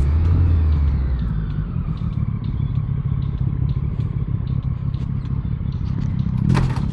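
Motorcycle engine running with road noise, a tone falling in pitch over the first couple of seconds as the bike eases off, and a short loud noise burst near the end.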